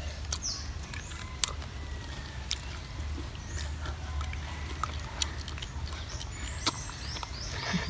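A crisp lettuce leaf bitten and chewed, heard as a scatter of sharp crunching clicks over a low rumble, with a few faint bird chirps.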